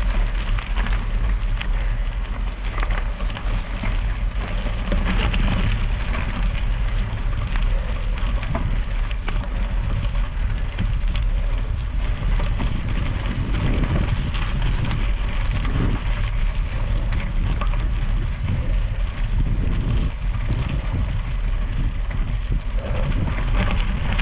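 Steady low rumble of wind on the microphone over a dense fine crackle of rain and bicycle tyres on wet gravel during a slow, steep climb.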